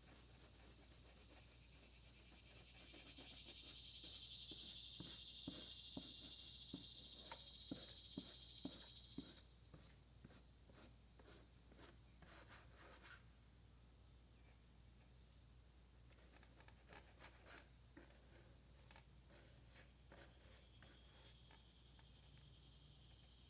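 Stiff-bristled brush scrubbing a lawn mower, a run of short rasping strokes, with a steady high insect chirring, crickets, underneath. A louder hiss swells from about three seconds in and stops sharply near ten seconds.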